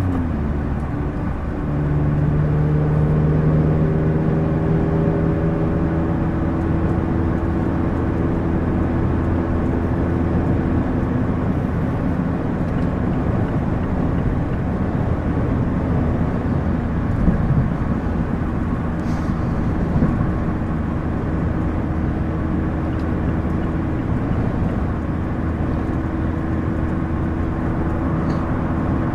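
2016 Mazda MX-5 Miata's four-cylinder engine through a Goodwin Racing RoadsterSport race exhaust, heard from the driver's seat on the move. The engine note climbs a little in pitch over the first few seconds as the car accelerates, then holds steady at cruise, with road noise underneath.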